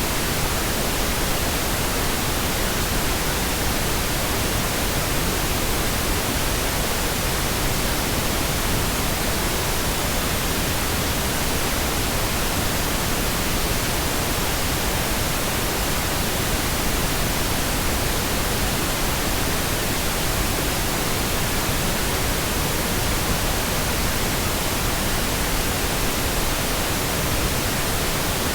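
Pink noise: a steady, unchanging hiss spread evenly across the whole range from deep to high.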